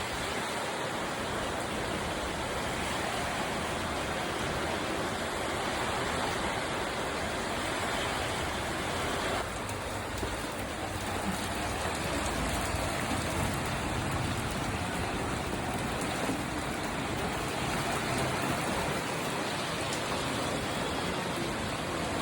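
Rain falling steadily, an even hiss that dips slightly in level about nine seconds in.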